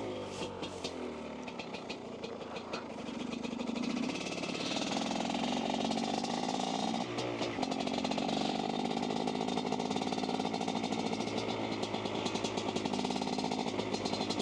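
Two-stroke dirtbike engine pulling under throttle, its pitch and level climbing a few seconds in and then holding steady, with a brief drop in revs about seven seconds in.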